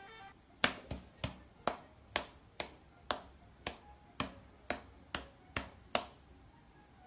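A run of about a dozen sharp clicks or taps, roughly two a second, stopping about six seconds in.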